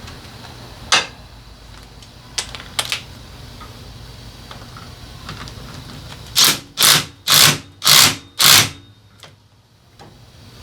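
A few sharp clicks, then five quick scraping strokes about two a second, typical of hand work with a tool on a part.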